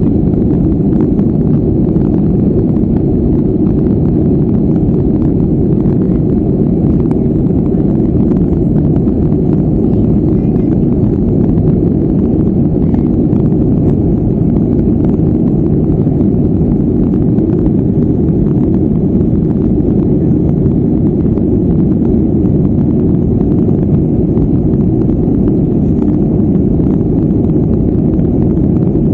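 Steady, loud low rumble of a Boeing 737-400 in flight, heard from inside the cabin: engine and airflow noise, with a faint high whine above it.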